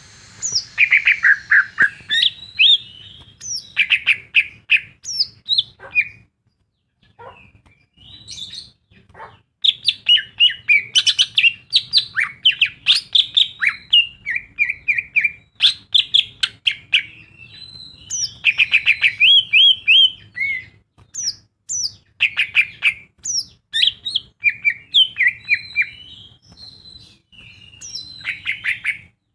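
Green leafbird (cucak ijo) singing a long, fast, varied song of rapid whistled and chattering phrases, packed with imitations of other birds' songs (isian), broken by a few short pauses. A faint low hum runs beneath.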